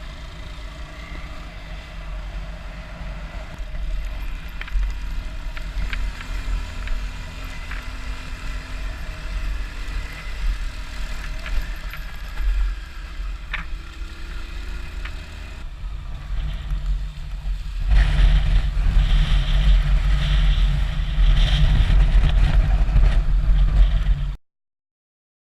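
Honda CRF250L's single-cylinder engine running as the motorcycle is ridden, a steady low rumble. It gets louder about three quarters of the way through, then cuts off abruptly near the end.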